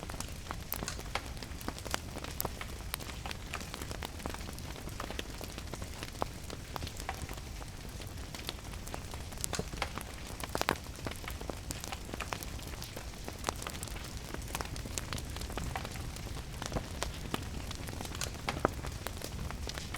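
Wood fire crackling and popping at irregular moments, with a couple of louder pops, over steady rain and a low rumble.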